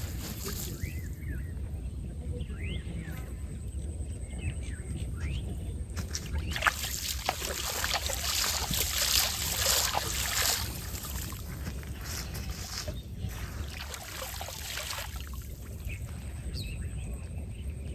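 River water splashing and sloshing in surges, over a steady low rumble, with a few short bird chirps in the first few seconds.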